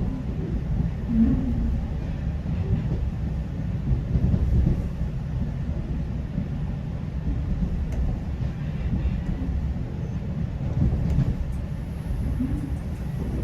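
GO Transit commuter train running along the track: a steady low rumble with a few faint clicks.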